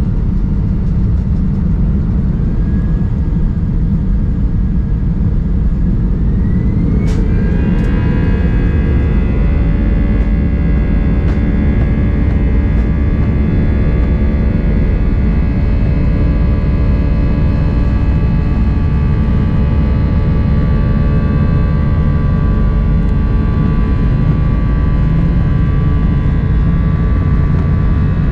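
Airbus A319's jet engines under heavy low rumble. A whine rises about seven seconds in, then settles into a steady whine of several tones, as the engines spool up to high thrust.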